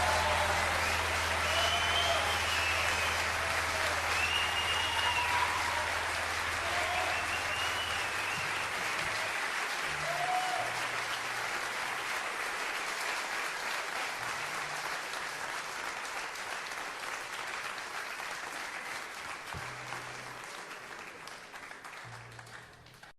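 Audience applauding after a song, with a few shouts rising above the clapping in the first seconds; the applause fades out gradually.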